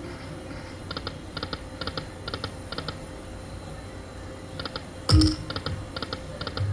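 Poker machine clicking sound effects, short paired ticks about two a second, with one loud thump about five seconds in.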